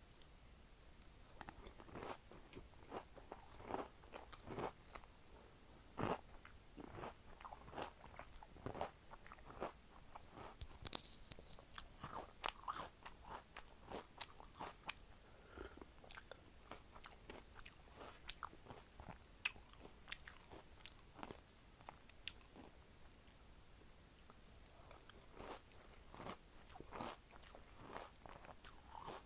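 Close-miked chewing and crunching of Cinnamon Toast Crunch cereal in milk, with many short sharp crunches spread irregularly throughout.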